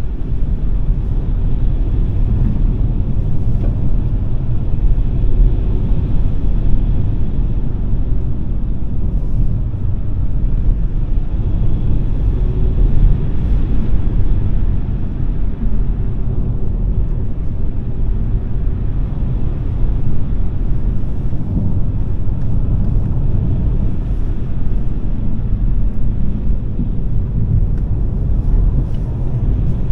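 Steady low road and tyre rumble with wind noise from a Smart #3 electric car on the move.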